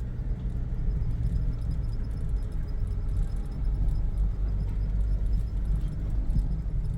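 Mitsubishi Pajero four-wheel drive crawling along a dirt track in low range: a steady low rumble of engine and tyres, with a faint even ticking high above it for part of the time.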